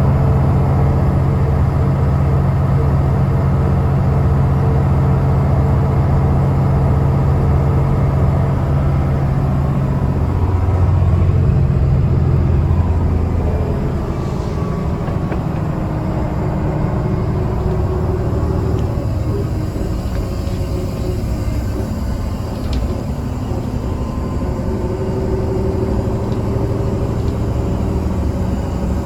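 Mercedes-Benz O307 city bus under way, its diesel engine running with a steady low hum heard from inside the cabin. About halfway through the engine note falls and the sound quietens.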